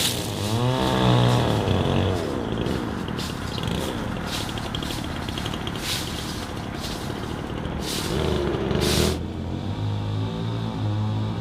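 An engine running, its pitch rising and falling in the first two seconds before settling into a steady low hum, with a short noisy burst near the end.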